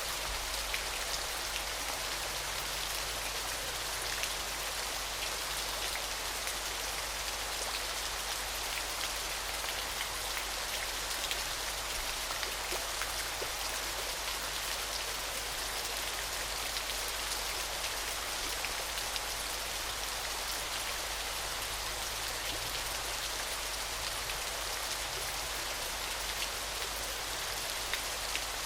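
Waterfall: a steady rush of falling water with a dense patter of small splashing drops.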